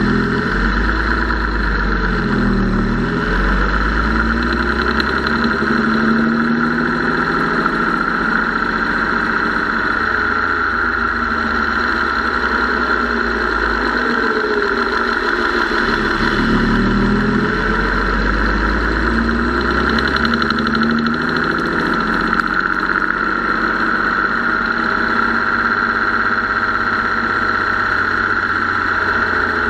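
Car engine running with a top-end noise that the owner takes for lifter or rocker noise, possibly from the mechanical fuel pump. The engine speed swings twice, a few seconds in and about midway.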